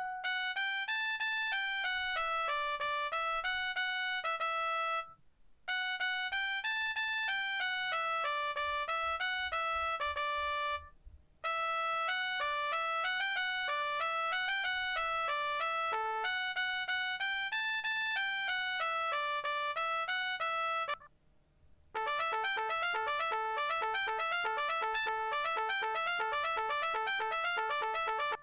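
Nokia 3590 ringtones playing one after another as single-note, beepy melodies, with short breaks between phrases. A faster, busier tune starts about three quarters of the way in.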